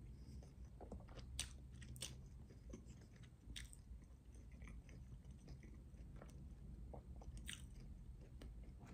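Faint close-up chewing of a fried chicken drumstick: soft wet mouth sounds with a few sharper clicks scattered through.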